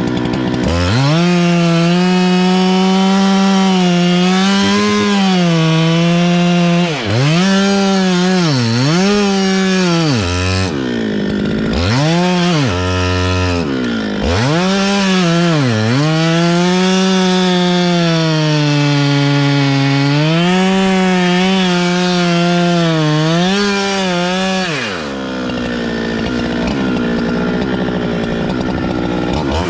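Two-stroke chainsaw running at high revs while cutting wood. The engine pitch dips and recovers several times, drops low for a few seconds about halfway through, and falls away a few seconds before the end.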